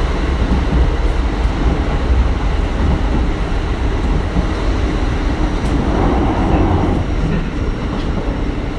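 Kintetsu 1420 series electric train running at speed, heard from inside the car: a steady rumble of wheels on the rails that swells briefly about six seconds in.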